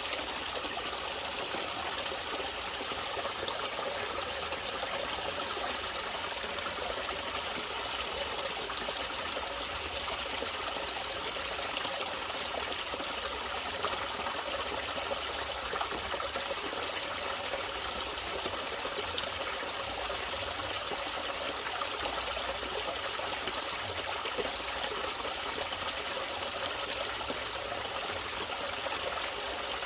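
Natural water running and trickling steadily, like a small stream.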